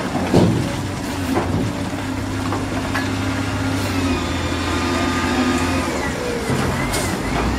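Heavy diesel construction machinery running steadily, with a few sharp knocks and higher wavering tones over the second half.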